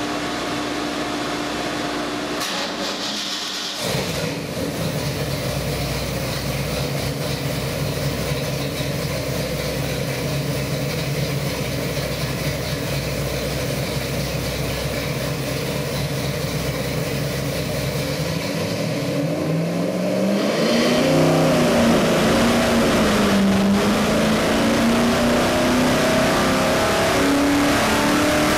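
Carbureted Pontiac 461 cubic-inch stroker V8 running on an engine dyno: steady at first, then about twenty seconds in the revs swing up and down and climb steadily toward the end as it is pulled up through the rpm range.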